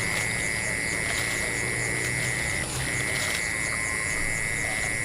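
A chorus of insects keeps up a steady, shrill high-pitched drone, with a brief break about halfway through. There are a few faint knocks.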